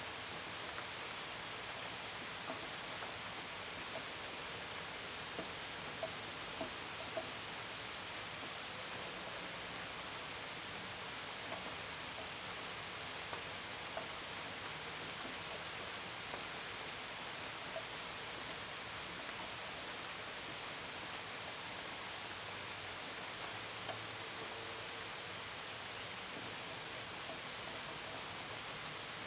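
Steady, gentle rain hissing, with scattered drops tapping on the window and gutters. Crickets chirp faintly in short repeated pulses throughout.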